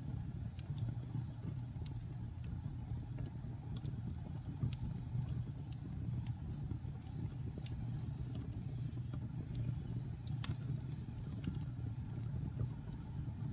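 Wood fire crackling in a fireplace: irregular sharp pops and snaps over a steady low rumble of the flames, with one louder pop about ten seconds in.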